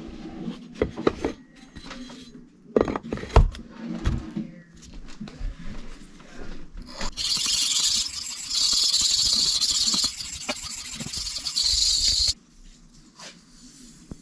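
A few knocks and clicks of handling, then a steel knife blade scraping along a whetstone in about three long strokes, a loud, hissing rasp that stops suddenly about twelve seconds in.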